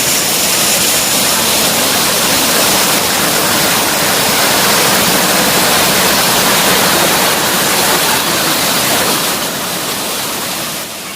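Waterfall pouring over rocks: a steady, loud rush of falling water, with the fall running low in the dry season. It grows quieter near the end.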